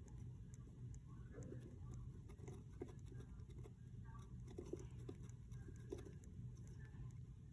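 Faint scratching and light tapping of budgies moving about in a nest box, with a few faint peeps, over a steady low hum.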